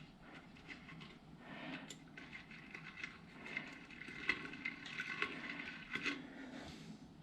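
Grease being worked into a motorcycle front hub's speedometer drive gears by hand: faint wet squishing with many small, irregular clicks of the metal parts, busiest in the middle of the stretch.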